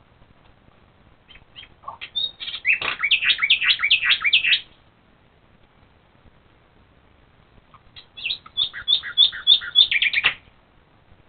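A songbird singing at night: two phrases of rapid, evenly repeated high notes, each two to three seconds long. The first starts about a second and a half in, the second near the end.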